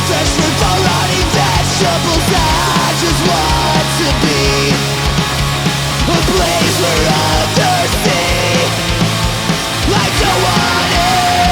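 Punk rock band recording playing loud and steady, a full band with drums.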